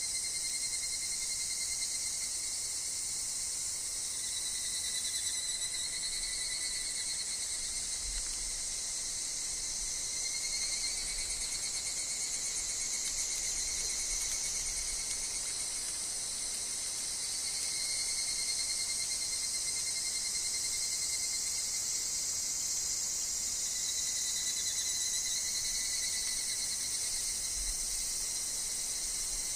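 Woodland insect chorus, including higurashi (evening cicadas): a continuous shrill, high-pitched hiss with a steady trilling tone lower down that swells and fades slowly.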